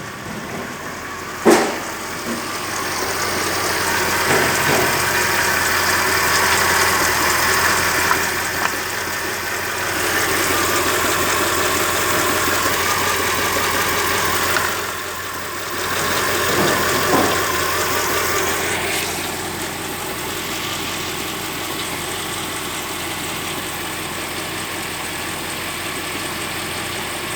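Mercedes M113 5.0-litre V8 running, with a sharp click about a second and a half in. The engine note rises and falls a couple of times, then settles to a steady idle.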